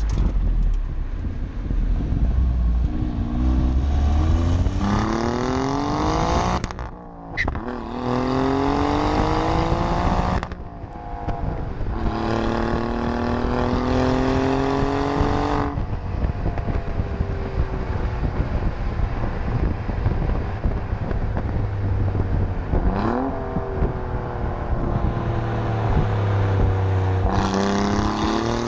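Alfa Romeo Giulia Quadrifoglio's twin-turbo V6 pulling hard through the gears: the exhaust note climbs slowly in three long pulls, each cut off sharply as at a gear change. It then runs steadier, with a quick blip, and climbs again near the end.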